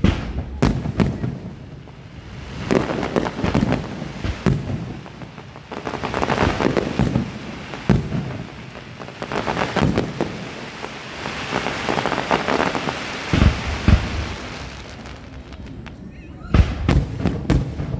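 Aerial fireworks shells bursting one after another: sharp booms about a second in, around 4 s, 8 s, 14 s and near the end, with long stretches of dense crackling between them.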